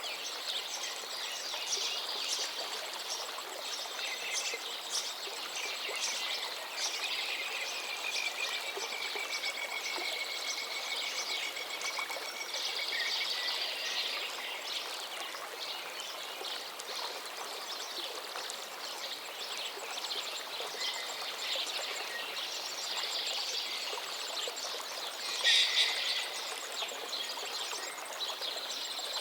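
River water running steadily, with many wild birds chirping and singing over it. About three-quarters of the way through, a bird calls close and loud for a moment.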